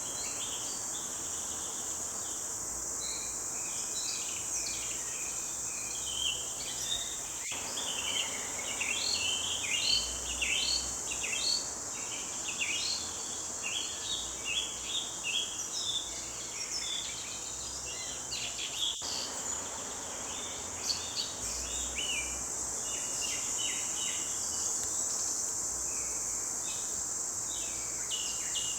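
Forest birds singing, many short high chirps and trills that grow busiest in the middle, over a steady high-pitched insect drone.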